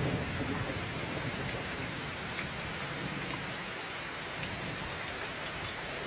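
Steady heavy rain falling, with a low rumble of thunder at the start that fades away.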